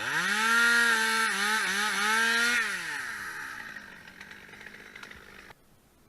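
Two-stroke chainsaw revved up to full throttle, its pitch dipping several times while held high, then falling back toward idle. The sound cuts off abruptly about five and a half seconds in.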